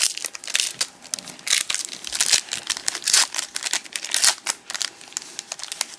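A trading-card pack wrapper being torn open and crinkled in the hands, with a dense run of irregular crackles and rustles.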